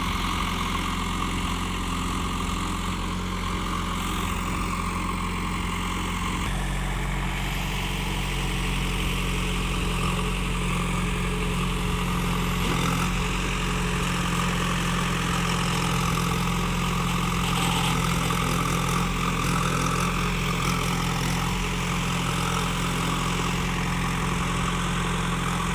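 Tractor diesel engine running steadily, its tone shifting about six and a half seconds in.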